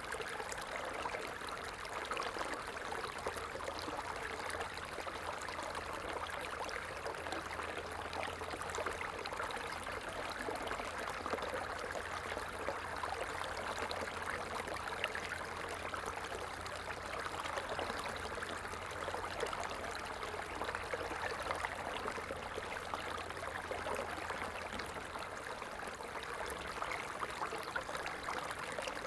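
Stream water flowing steadily, an even trickling and splashing without a break.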